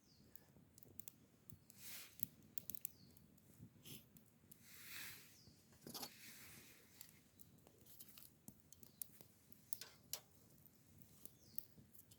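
Wood fire crackling quietly, with irregular sharp pops and a few short hissing swells. Faint falling bird chirps come through now and then.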